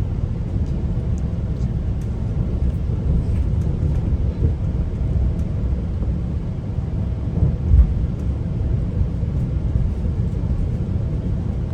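GO Transit commuter train running along the track: a steady low rumble of wheels and running gear, with faint clicks and a brief louder knock about eight seconds in.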